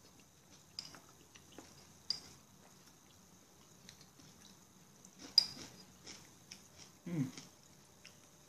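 Quiet chewing of food, with scattered soft clicks. The sharpest click comes about five seconds in, and a short low sound follows a couple of seconds later.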